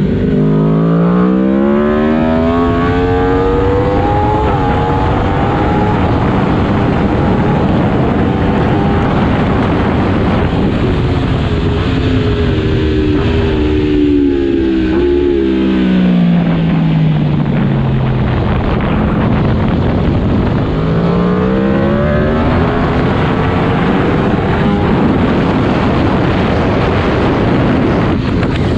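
Aprilia RSV4 superbike's V4 engine ridden hard on track. It climbs in pitch through the gears at the start, falls steadily as it slows around the middle, then climbs again, over heavy wind rush.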